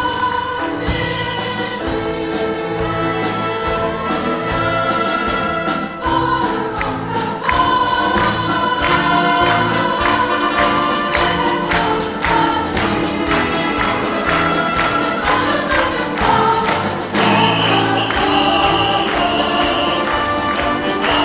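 School pop-symphonic orchestra playing live: full orchestral music with sustained chords over a steady, driving beat.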